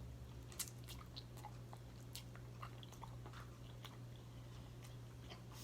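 A person chewing a mouthful of food up close, with faint, irregular mouth clicks and smacks.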